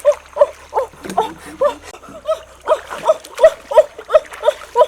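Ducks quacking: a rapid run of short, nasal calls, several a second, overlapping one another.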